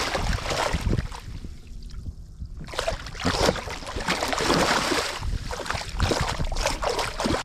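Water splashing and sloshing in irregular bursts at the side of a kayak as a hooked trout is brought to the surface.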